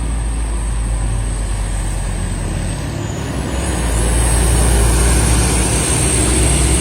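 Heavy truck engines running as they pass on the road: a deep, steady drone with road hiss that grows louder about four seconds in.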